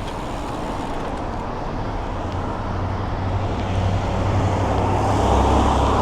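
Road traffic noise from a moving bicycle's point of view, with a car's engine rumble building and growing louder toward the end as it comes close.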